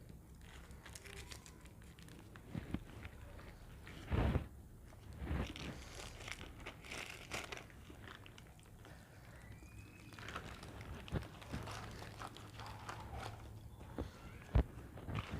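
A person eating a meal served on a banana leaf: crunching and chewing, with rustles and crinkles, and a few louder knocks about four seconds in, near the middle and near the end.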